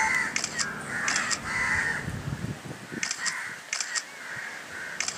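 Birds calling outdoors in a run of short, harsh calls, about eight of them spread through the few seconds.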